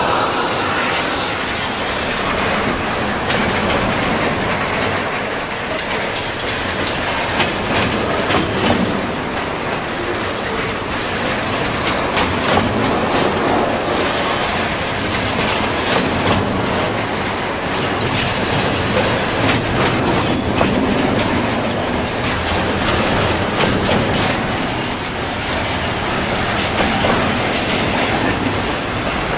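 Freight train of double-stack container well cars rolling past at close range. Steel wheels make a loud, steady rumble on the rails, with repeated clicking over rail joints and a high wheel squeal.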